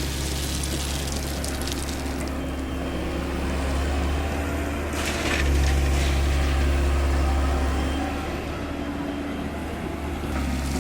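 Komatsu PC210-10 excavator's diesel engine running steadily. It rises under load for a couple of seconds midway, with a brief crash of crushed stone about five seconds in.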